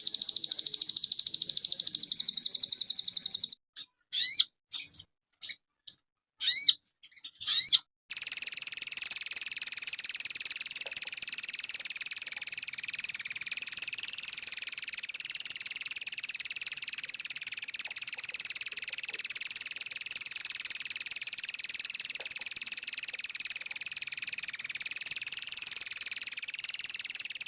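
Birdsong tutor recording: a rapid, high, shrill trill for about three and a half seconds, then four or five sharp sweeping chirps with short gaps between them, then a steady high shrill buzz, insect-like, that runs on unchanged.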